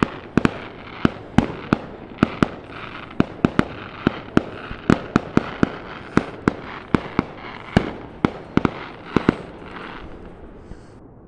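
Fireworks going off in quick, irregular bangs over a continuous crackle. The bangs stop about nine seconds in, and the crackle fades away after them.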